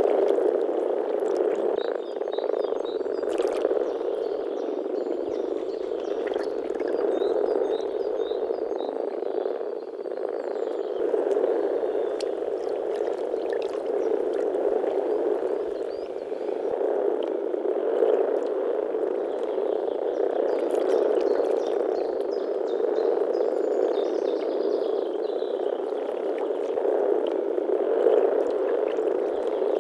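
Chorus of many common frogs (Rana temporaria) croaking together in a dense, continuous mass of low calls that swells and eases without a break.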